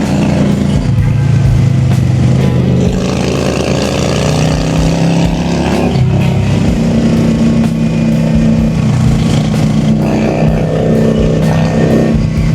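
Honda Shadow V-twin cruiser motorcycle engine running under way. Its pitch climbs over a few seconds, drops suddenly about halfway through, holds steady, then climbs again near the end.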